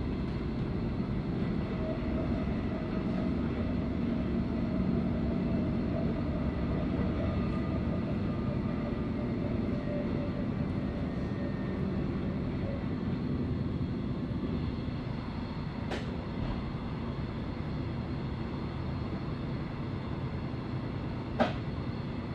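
Passenger train running at speed, heard from inside the passenger car as a steady rumble, with a faint whine over the first half. Two sharp clicks sound, a faint one about two-thirds of the way through and a louder one near the end.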